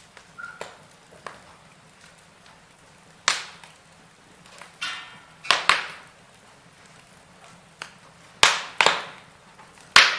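Wood fire crackling in a fireplace: irregular sharp pops and snaps over a faint steady burn, several of them loud, with a short hiss just before a pair of pops about five seconds in.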